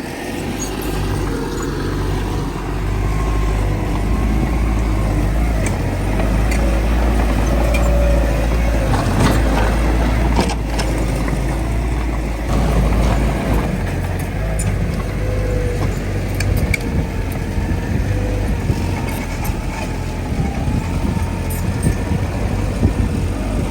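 Heavy diesel earthmoving machinery running under load: a deep, steady engine drone with a wavering whine over it and a few sharp metallic clanks about ten seconds in.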